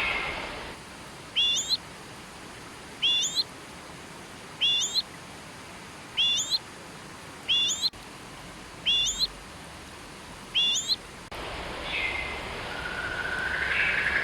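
A bird calling seven times: a short, rising, whistled note repeated about every second and a half. About eleven seconds in, the calls stop and a hissing background with other birds' chirps takes over.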